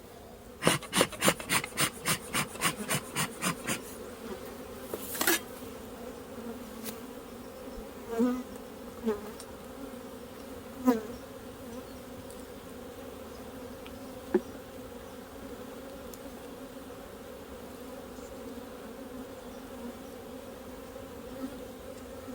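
Honey bees buzzing steadily around an open hive, with a few louder passes of single bees flying close. Early on, a quick run of about a dozen sharp clicks or knocks, roughly four a second, and a few single knocks later.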